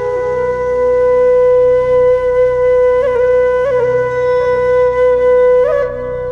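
Background music: a flute holds one long, steady note over a low droning accompaniment, with quick ornamental flourishes about halfway through and again near the end.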